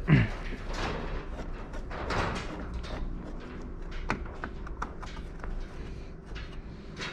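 Hand work on car interior trim: a thud right at the start, then scattered clicks, knocks and scraping of trim pieces and screws being handled, over a faint steady hum.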